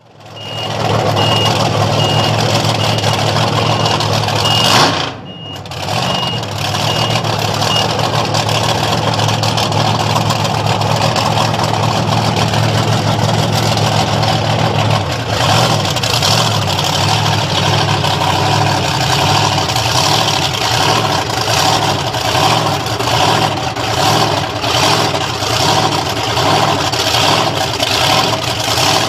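Heavy vehicle engine running, with a reversing alarm beeping evenly for the first several seconds. The engine sound dips briefly about five seconds in, then carries on and takes on a slow pulsing rhythm about halfway through.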